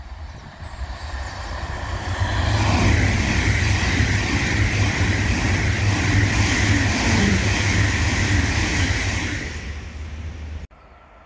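Deutsche Bahn ICE high-speed electric train passing at speed. The noise swells over the first two seconds, stays loud for about seven seconds, then fades and cuts off suddenly near the end.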